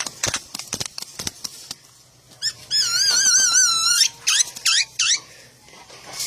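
A caged songbird calling: a run of sharp clicks, then a loud whistle that quavers evenly up and down for about a second and a half, followed by a few quick sweeping whistle notes.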